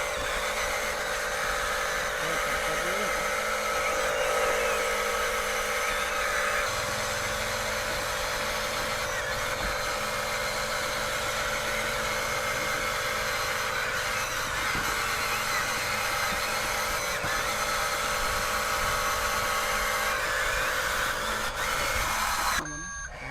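Small electric motors and gearboxes of a radio-controlled construction toy whirring steadily, with a change in pitch about seven seconds in. The sound drops sharply just before the end.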